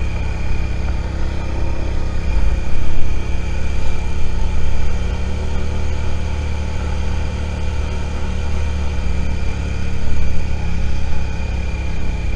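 Suzuki SV650's V-twin engine running at low, steady revs, with a low rumble and a couple of louder swells.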